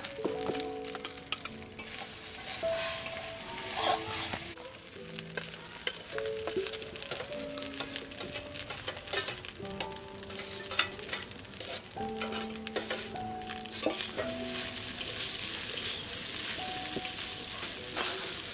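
Fried rice sizzling in a steel kadai, stirred and tossed with a metal spatula that scrapes and clicks against the pan many times over.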